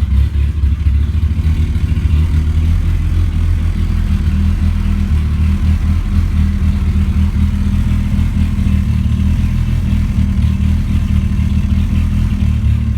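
2003 Mazda Protege5's built four-cylinder engine idling through a 4-2-1 header dumping straight out with no muffler, loud with an uneven, lumpy beat from its Stage 3 race cams and 11:1 compression.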